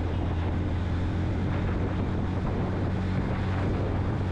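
Yamaha FZ-X's 149 cc single-cylinder engine running at steady highway speed, a constant low drone, with wind rushing over the rider's microphone.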